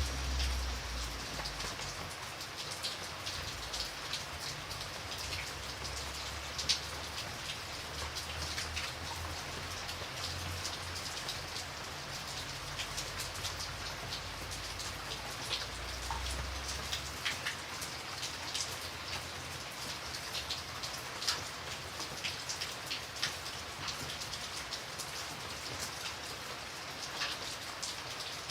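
Steady rain falling, with many separate drops ticking sharply on a surface. A low rumble underneath dies away about seventeen seconds in.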